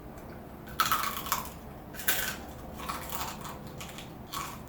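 Close-miked crunching: someone biting and chewing crisp, air-fried pig's trotter skin (crispy pata), in four bouts of crackling crunches about a second apart.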